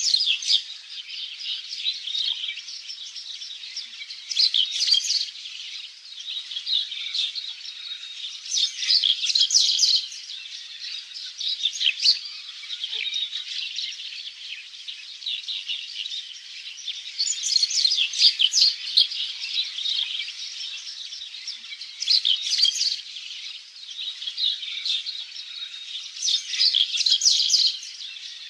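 Birds chirping and singing: a dense chorus of short, high calls that swells louder every few seconds.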